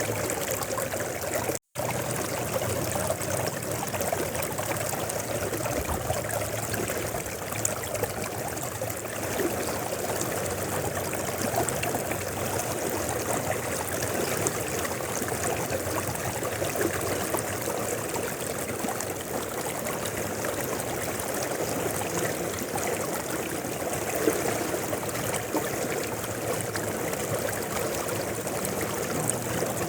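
Mountain river water flowing and splashing steadily over its bed, an even rushing noise, broken by a split-second dropout to silence about two seconds in.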